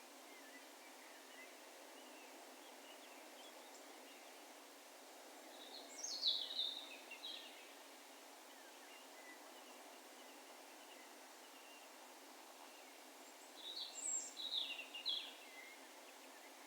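Two short phrases of a songbird's calls, one about six seconds in and the other about fourteen seconds in, each a quick run of high notes lasting about two seconds, over a faint steady hiss of open-field ambience.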